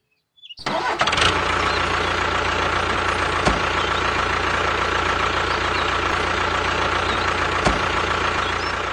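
A motor starts abruptly about half a second in and runs steadily with a whine and a low hum, two brief knocks along the way, fading near the end.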